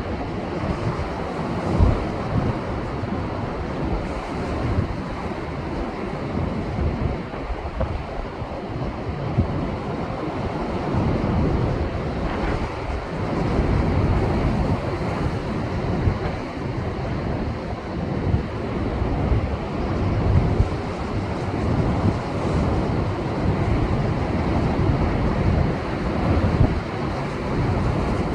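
Heavy post-typhoon storm surf breaking and washing over shoreline rocks: a continuous rushing roar that swells and eases in irregular surges. Wind buffets the microphone.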